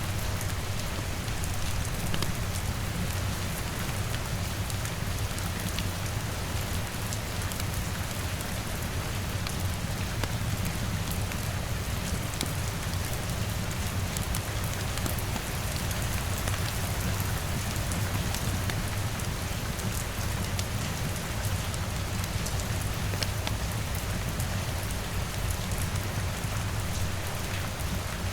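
Steady rain with a low, even rumble underneath and faint scattered crackles from a wood fire, in a layered cabin ambience of rain on the window and a fireplace.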